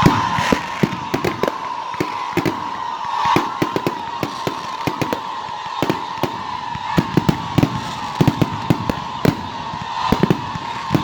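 Fireworks going off: an irregular string of sharp bangs and crackles, over a steady high tone that slowly falls in pitch.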